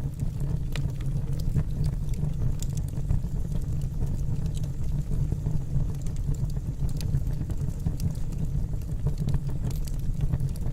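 Wood logs burning in a fireplace, crackling and popping: many small, irregular snaps over a steady low rumble.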